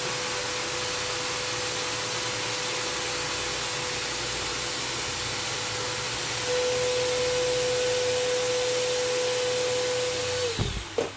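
Vacuum cleaner running steadily with a constant whine as it sucks dust and lint out of a sewing machine. It gets louder about six and a half seconds in, then is switched off near the end and winds down with a falling whine.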